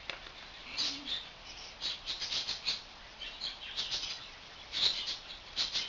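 Small garden birds chirping, a busy scatter of short high chirps several times a second.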